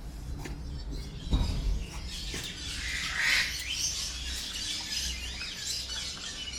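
Many birds singing and chirping at once, a mixed chorus of overlapping calls that grows thicker from about two seconds in. A dull low thump comes about a second and a half in.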